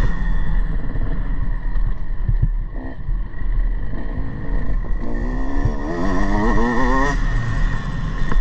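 Motocross dirt bike engine revving, its pitch rising and falling as the throttle is worked, loudest about five to seven seconds in, over heavy wind rumble on the microphone.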